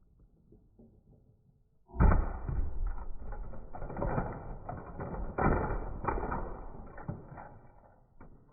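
LEGO bricks being pried apart with a plastic brick separator: faint clicks at first, then from about two seconds in a dense run of plastic clicking, snapping and rattling that fades near the end.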